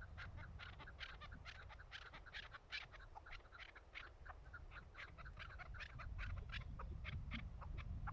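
Chukar partridges calling: a fast run of short clucking notes, several a second.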